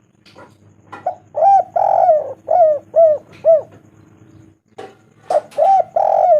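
Spotted dove (tekukur) cooing: a phrase of short arched coos with one longer, rougher note among them, starting about a second in, and the same phrase begun again about five seconds in.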